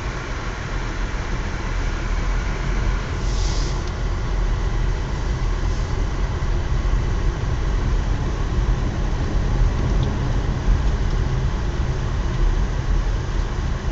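Vehicle driving up a snowy road: a steady low engine and road rumble, with a brief hiss about three and a half seconds in.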